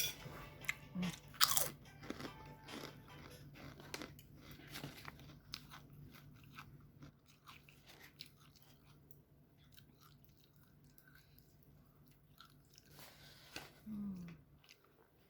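Close-miked chewing and crunching of a mouthful of nasi goreng: irregular crisp crunches and mouth sounds, loudest in the first two seconds and thinning out later.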